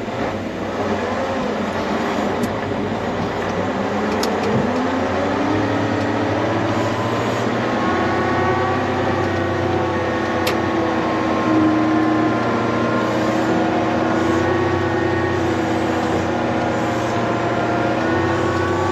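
Kirovets K-742 tractor's diesel engine picking up revs as the tractor moves off, then running steadily under load while pulling a Top Down cultivator through wet ground.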